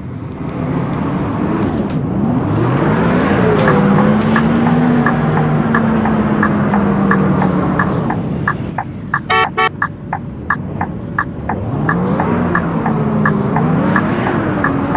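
Scania K230UB bus engine heard on board, pulling away with the pitch rising and dropping through automatic gear changes, then holding steady, then climbing through the gears again near the end. A steady ticking runs under it, and a short burst of rapid electronic beeps sounds a little past the middle.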